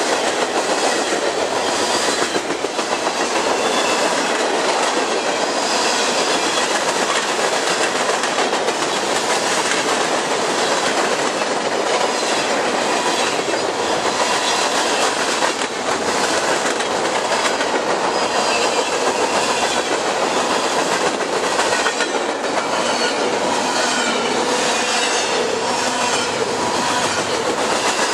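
Freight train cars, tank cars and boxcars, rolling past at speed: a loud, steady rush of steel wheels on the rails.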